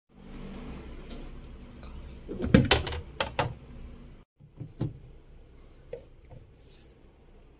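Fridge compartments and food containers being handled, with a quick cluster of knocks and clatter about two and a half seconds in, then a few lighter knocks. A low steady hum sits under the first couple of seconds.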